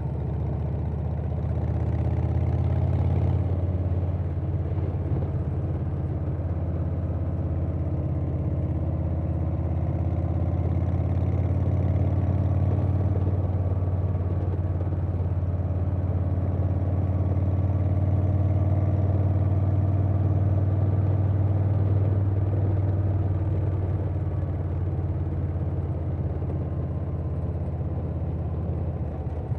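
Harley-Davidson Softail Standard's Milwaukee-Eight V-twin running at cruising speed through a Vance & Hines Big Radius 2-into-2 exhaust, with wind rushing past. The engine note swells a little a couple of seconds in and again around the middle, easing off toward the end.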